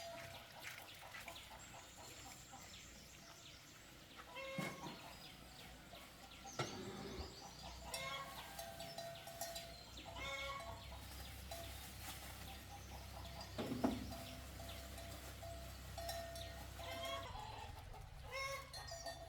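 Chickens clucking, with short calls coming in small groups over a faint steady background.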